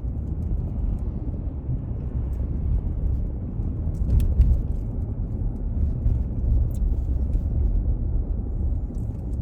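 A car driving, with steady low road and engine rumble and a few faint clicks.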